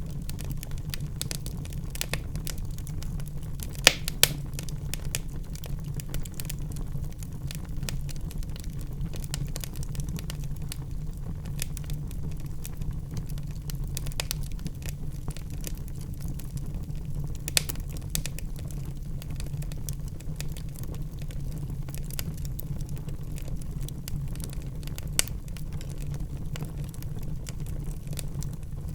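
Wood logs burning in a fireplace, crackling with a steady stream of small pops and a few louder snaps over a constant low rumble of the flames.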